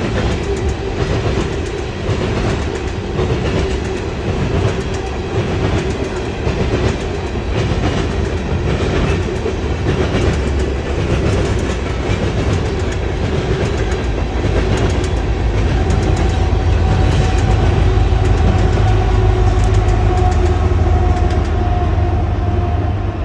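Freight train cars rolling past with a steady rumble and wheels clacking over the rail joints. A deeper low rumble grows louder over the last third.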